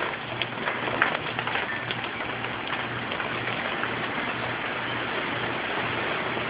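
Steady tropical-storm rain falling, with scattered sharper drop hits through it.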